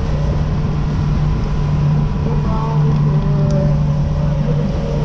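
Motorboat engine running steadily at speed, a constant hum over a low rumble of wind and water.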